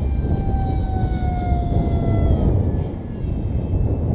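Radio-controlled model airplane's motor and propeller whining in flight, the pitch sagging slowly over the first two and a half seconds, under heavy wind buffeting on the microphone.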